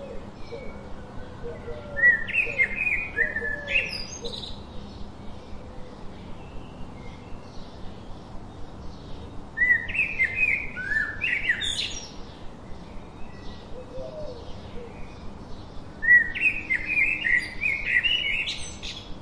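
Birds singing: three bursts of quick, gliding chirping notes, about two, ten and sixteen seconds in, over constant faint chirps and twittering.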